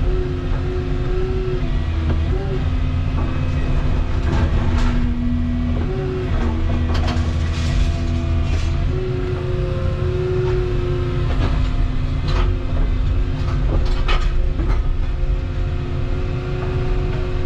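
Volvo 235EL excavator's diesel engine and hydraulics working under load, the hydraulic whine stepping up and down in pitch as the functions change. Several sharp cracks and knocks are spread through it, typical of concrete breaking as the wall is chewed down.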